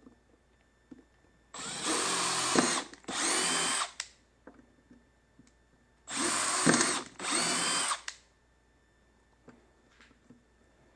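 Power drill cutting a hole in a motorcycle saddlebag for an amplifier connector, run in four short bursts of about a second each, in two pairs a few seconds apart.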